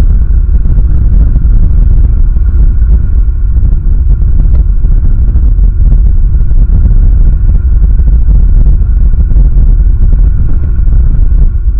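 Strong wind buffeting an outdoor camera microphone: a loud, steady low rumble.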